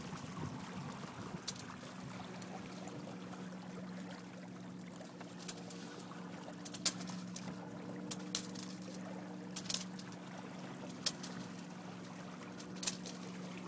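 Water trickling and splashing along the hulls of a Hobie 16 catamaran under sail, with sharp slaps of water every second or two from the middle on. A steady low hum runs underneath and stops at the end.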